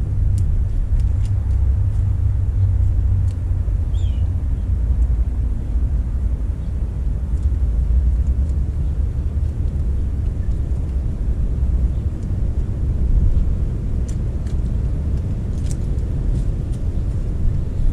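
Steady low rumble of wind buffeting the microphone, with a few faint light clicks from hand work on the hub.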